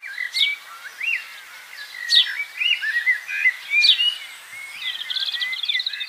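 Several birds calling together: three sharp, quick downward-sweeping notes over a continuous warbling chatter, with a rapid high trill near the end.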